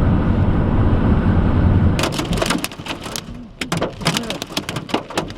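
Steady road rumble inside a moving car, cutting off abruptly about two seconds in. It is followed by irregular sharp clatters of hailstones striking the car's roof and windshield.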